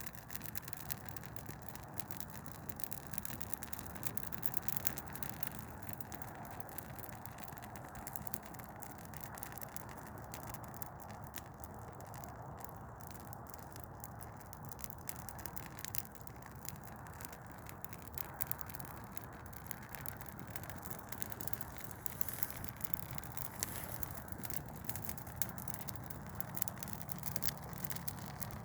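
Douglas fir Christmas tree burning, crackling continuously with many sharp, irregular pops and snaps.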